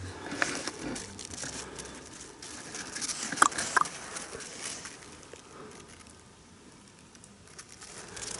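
Dogs moving about, with scattered pattering and scuffing, and two short high squeaks about three and a half seconds in.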